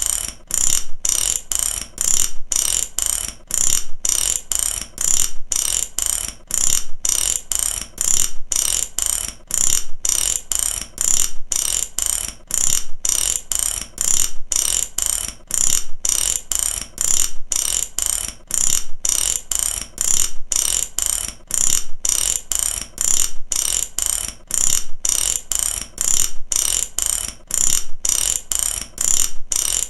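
Mechanic's ratchet wrench clicking, run after run of fast clicks from repeated strokes in a steady rhythm.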